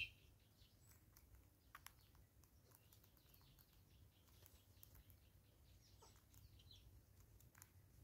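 Near silence with faint, scattered bird chirps and ticks. A short high chirp right at the start is the loudest sound, and two quick sharp ticks come a little under two seconds in.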